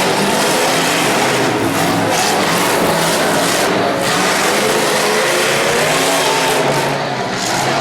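Mega truck's engine revving hard at high revs, its pitch wavering up and down.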